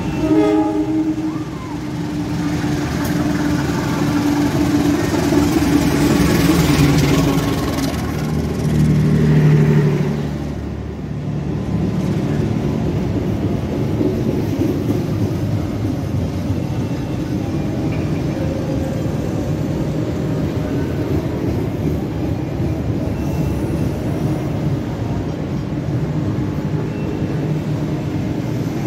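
Pandalungan passenger train's diesel-electric locomotive running past the platform, its engine loudest about nine to ten seconds in. Then the steady rumble and wheel clatter of the passenger coaches rolling past.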